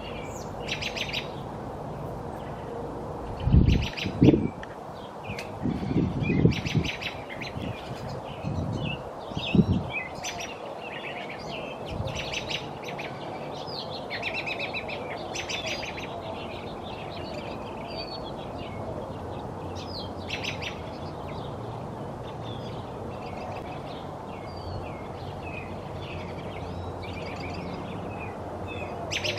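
Many American robins chirping and calling, short rapid notes overlapping throughout. Several low rumbling bumps in the first ten seconds, loudest about four seconds in, stand out over the birds.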